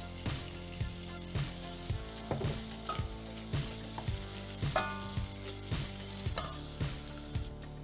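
Diced meat and chopped onion sizzling in hot fat in a stainless steel pot, stirred with a wooden spoon. Background music with a steady beat plays underneath.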